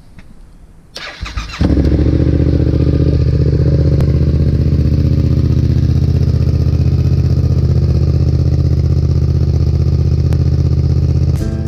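Yamaha XSR700's parallel-twin engine cranked on the electric starter, catching about a second and a half in, then idling steadily and loudly through a Black Widow aftermarket exhaust with its secondary baffle fitted.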